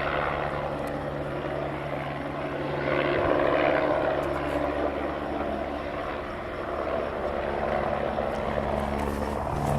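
A Eurocopter AS350 A-Star helicopter flying close with a water bucket slung beneath it: a steady rotor and turbine sound that swells a little about three seconds in.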